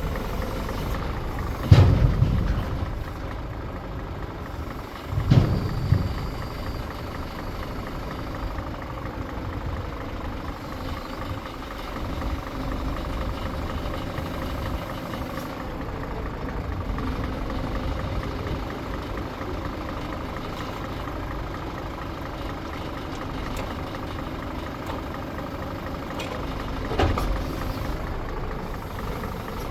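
Scania P410 truck's diesel engine idling steadily, with brief louder bursts about 2 and 5 seconds in and again near the end.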